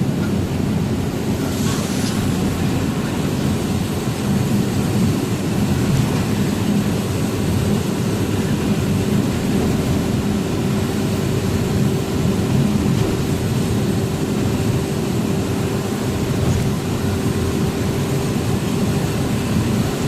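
Truck on the move: a steady low engine drone mixed with road noise, with a faint held hum over it.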